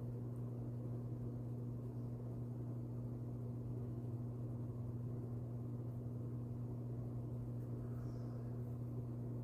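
A steady, unchanging low hum with an even low rushing noise beneath it.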